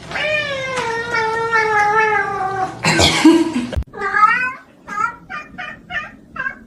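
A cat's long, drawn-out meow lasting nearly three seconds, falling slightly in pitch, then a short noisy burst, then a run of short, higher meows, about two a second.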